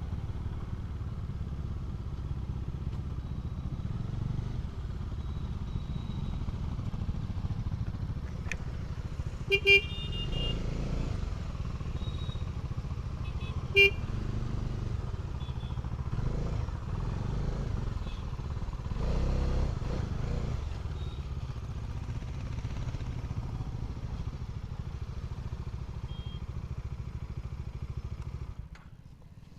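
Motorcycle engines running at low speed, a steady low rumble. A horn beeps twice in quick succession about ten seconds in and once more about fourteen seconds in. The engine sound drops off near the end.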